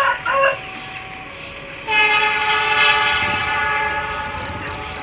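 Train horn sounded about two seconds in: one long, many-toned blast that slowly fades, the driver's greeting toot. At the very start, the end of a rooster's crow.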